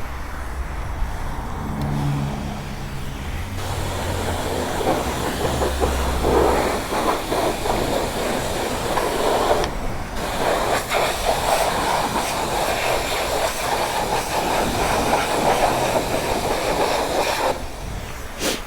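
Self-serve car wash pressure wand spraying a steady hissing jet of water, with a brief pause about ten seconds in, then shutting off shortly before the end.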